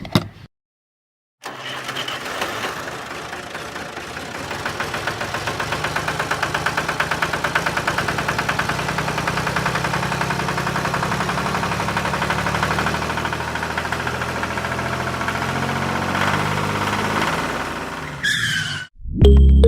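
Small engine of a homemade mini tractor starting up and running steadily with a fast, even chugging, then cutting off abruptly near the end.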